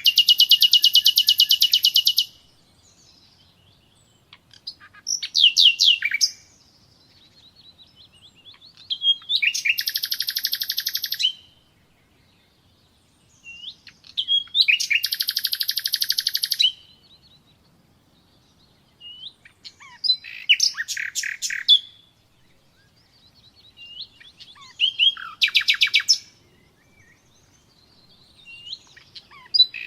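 Common nightingale singing in separate phrases, a new one about every five seconds. Each phrase is a fast run of rapidly repeated notes lasting one to two seconds, some opened by a few whistled notes, with short pauses between phrases.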